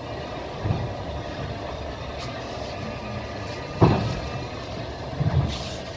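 Passenger train carriage rolling along the track: a steady rumble with the clack of wheels over rail joints. A knock comes under a second in, the sharpest about four seconds in, and a double knock near the end.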